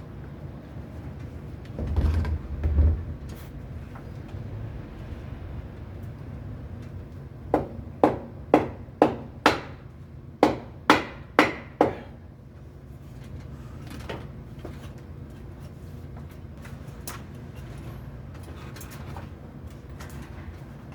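Two dull thumps, then a run of about nine sharp knocks, roughly two a second, as glued PVC drain-pipe fittings are knocked together during assembly; a few faint clicks follow.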